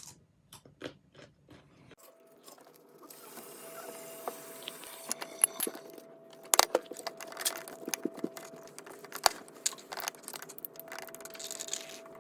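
Close-up chewing and crunching of raw, unripe green mango: irregular crisp crunches as the hard fruit is bitten and chewed. A faint steady hum sits underneath from about two seconds in.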